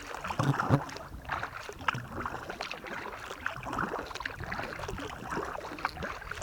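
Kayak being paddled: irregular splashing and dripping of water from the paddle blades.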